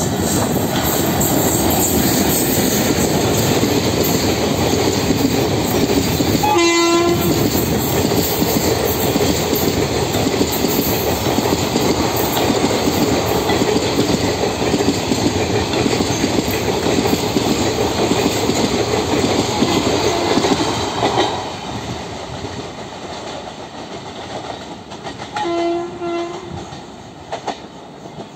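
WAP4 electric locomotive and ICF coaches of an express train passing at speed, a steady loud rush that drops away about 21 seconds in. A short train-horn blast sounds about 7 seconds in, and a short double horn toot comes near the end.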